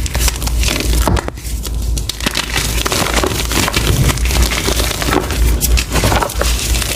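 Reformed gym chalk being crushed by hand, with dense crunching and crumbling crackle and a brief lull a little after a second in.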